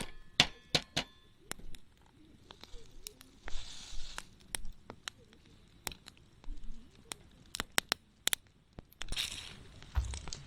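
Wood campfire crackling, with irregular sharp pops and two brief rushes of noise.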